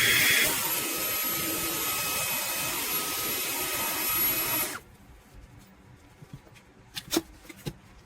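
Fanttik Slim V8 Apex cordless handheld vacuum running with a steady whine. It is briefly louder at the start as its pitch rises, then cuts off suddenly a little under five seconds in. A few light knocks follow.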